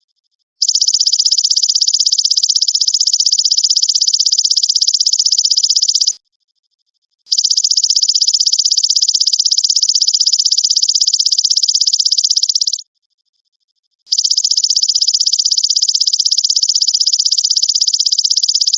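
Belalang emas (golden grasshopper) singing: a high-pitched, rapidly pulsing buzzing trill in long phrases of about five to six seconds, each separated by about a second of silence, three phrases in all.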